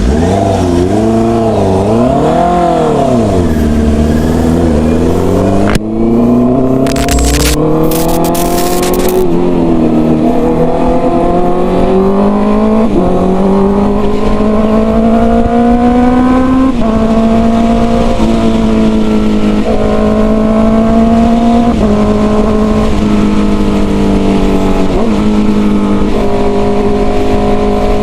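Honda CB650R inline-four through a full-system exhaust, ridden under power. The revs rise and fall in the first few seconds, then the engine note climbs and drops sharply at several upshifts in the second half.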